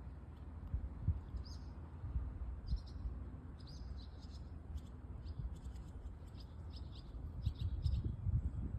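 Small birds chirping in short, high, repeated calls, over the low steady wash of waves that swells louder near the end.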